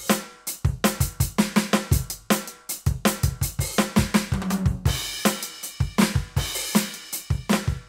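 Roland TD-17KVX V-Drums electronic drum kit played through its sound module: a busy beat of many quick drum strokes with kick, snare, hi-hat and cymbals.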